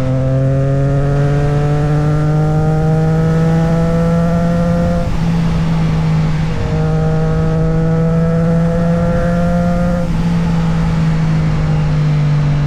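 Motorcycle engine pulling under acceleration, rising in pitch, then upshifting about five seconds in and again about ten seconds in, each shift dropping the revs before the next climb.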